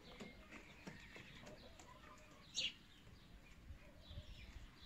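Near-silent yard with faint scattered chicken sounds and one short, high, falling bird chirp about two and a half seconds in.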